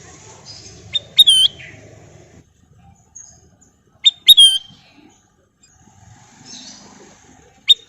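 Kutilang emas, a bulbul, whistling three short, loud phrases roughly every three and a half seconds, each a quick upward flick or two followed by a clear bending note.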